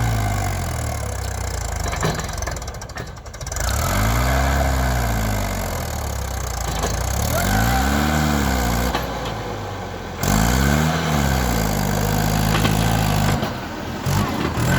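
Mahindra tractor's diesel engine revved up and back down several times, each rev a rising then falling swell in pitch. Near the end it holds at a steady speed for a couple of seconds before dropping.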